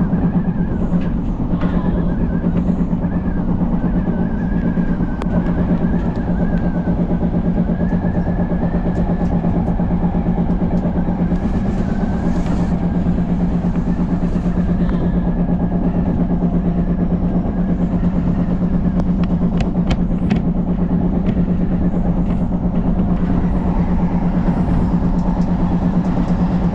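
Odakyu Line electric commuter train running at steady speed, heard from inside the train: a steady low rumble with a thin, wavering high whine over it, and a few sharp clicks about two-thirds of the way through.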